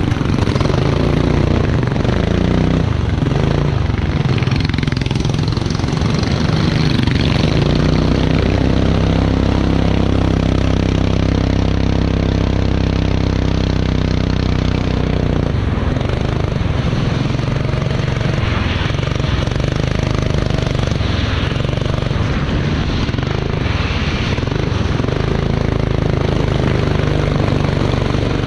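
Racing kart engine running under load, its pitch rising and falling, then held steady for several seconds in the middle before changing again.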